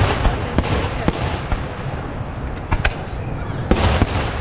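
Aerial fireworks display: a rapid, uneven series of sharp bangs from bursting shells over a continuous low rumble and crackle.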